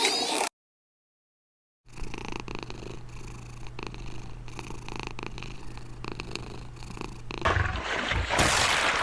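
An animal purring steadily after a short dead-silent gap, with a fine rapid flutter over a low hum. Near the end the purring gives way to a louder noisy rush.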